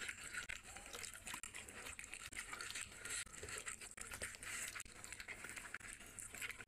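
Close-miked eating of grilled chicken with the hands: chewing, lip smacks and wet mouth noises, a continuous run of small irregular clicks and crackles.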